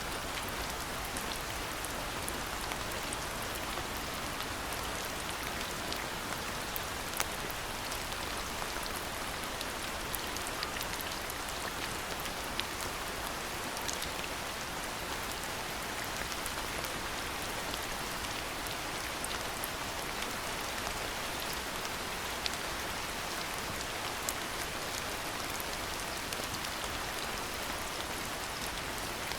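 Steady rain falling, with a constant hiss and many small, sharp drop ticks scattered through it.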